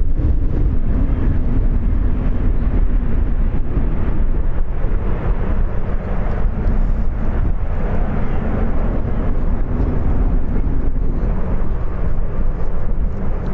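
Jet engines of a Boeing 737-800 (CFM56-7B turbofans) on arrival, a continuous noise that swells in the middle and eases near the end, under heavy wind rumble on the microphone.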